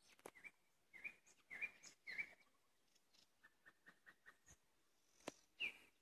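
Faint songbird song: a few clear whistled notes, then a quick run of about seven short repeated notes, with a sharp click near the end.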